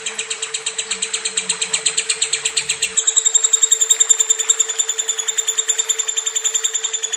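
Lovebird singing a long, unbroken, rapid chattering trill of about ten notes a second, the long-duration 'ngekek' that keepers train for. About three seconds in the notes turn clearer and more whistled. A steady low hum runs beneath.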